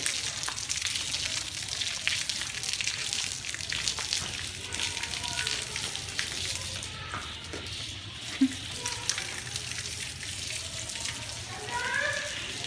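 Water splashing and running over a wet surface: a steady hiss dense with small splashes that eases a little about seven seconds in, with one sharp tick about eight seconds in.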